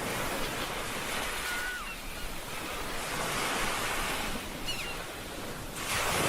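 Ocean surf washing and breaking in slow swells. Two faint, short high calls glide over it, about two seconds in and again near five seconds.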